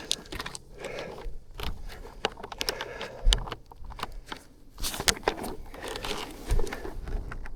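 Irregular clicks, scrapes and crinkling of objects being handled close to the microphone, with two heavier thumps, one about three seconds in and one near the end.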